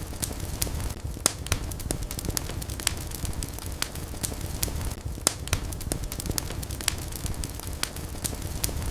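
Wood fire crackling and popping: frequent irregular sharp snaps over a low steady rumble of the flames, with a few louder pops.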